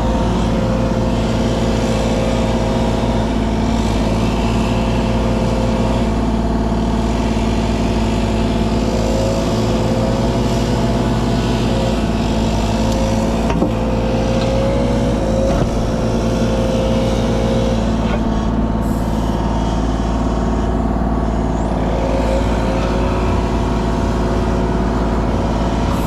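Kubota KX033 mini excavator's diesel engine running steadily under load, with a hydraulic whine that rises and falls in pitch several times as the arm and tiltrotator are worked.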